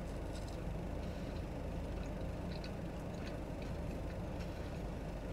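Chewing a bite of grilled cheese sandwich: faint, scattered wet mouth clicks over a steady low hum inside a stationary car.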